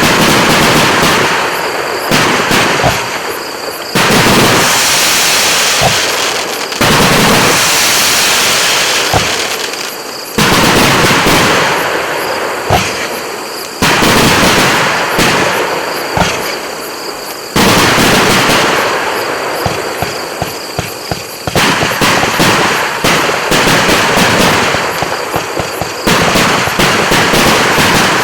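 Fan-shaped fireworks battery (cake) firing: a rapid stream of shot launches and popping bursts. It comes in surges that each start abruptly, about every three to four seconds, and tail off.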